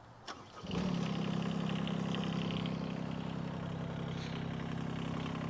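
Engine of a 1.2 ton Shanding mini excavator being started: a brief crank, then it catches within a second and settles into a steady idle.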